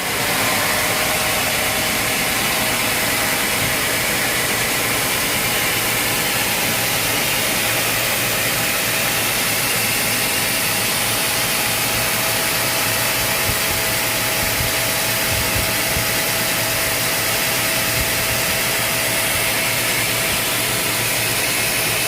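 Sawmill machinery running steadily: a constant, loud mechanical noise with a faint steady whine.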